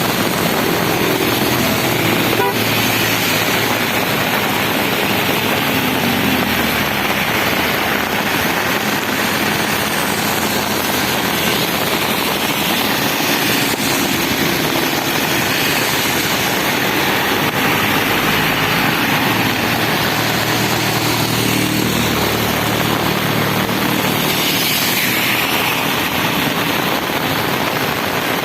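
Road traffic passing on a rain-soaked road: the engines of passing vehicles come and go over a constant hiss of rain and wet tyres.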